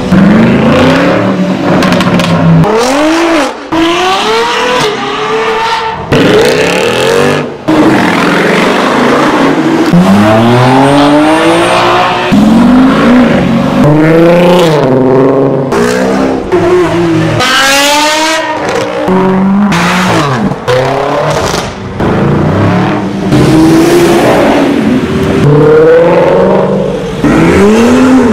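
Performance car engines revving hard and accelerating away, one car after another. The exhaust notes climb and drop in pitch over and over, with sudden cuts between separate clips.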